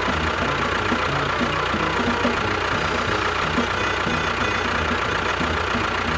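A small engine running steadily, as on a DIY mini tractor bulldozer, with an even low pulsing throughout.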